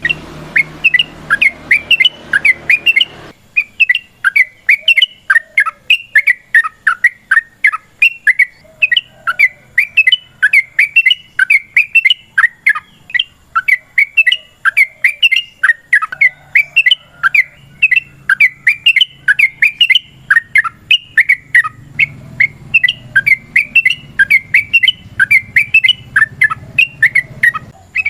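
Yellow-vented bulbul (trucukan) singing a long, fast run of short, loud chattering and bubbling notes, several a second without a break.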